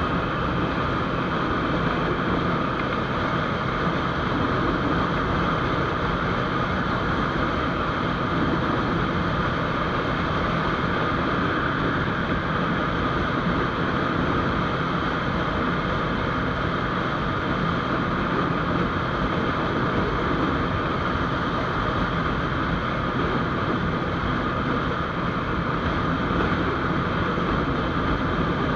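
GPX GR200R motorcycle riding at a steady speed: engine running evenly under wind and road noise, with no change in pace.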